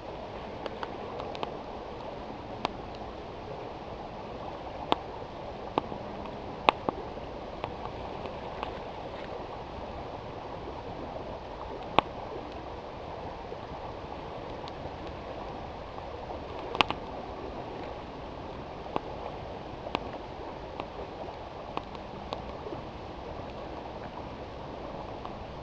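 Campfire wood crackling, with sharp irregular pops every second or two, over the steady rush of a flowing river.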